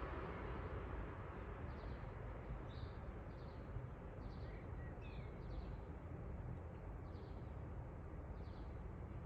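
A small bird chirping, short high calls about once a second, over a steady low background rumble.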